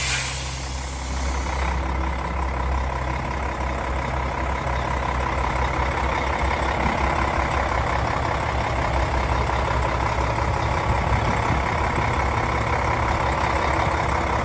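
Hyundai tractor head's 12.3-litre six-cylinder diesel idling steadily, opening with a short loud hiss of air that dies away within about two seconds.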